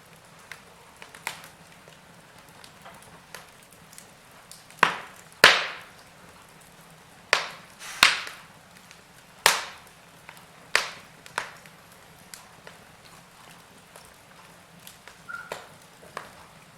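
Wood fire crackling in a fireplace: irregular sharp pops and snaps of burning logs over a soft steady hiss, with a cluster of louder cracks in the middle.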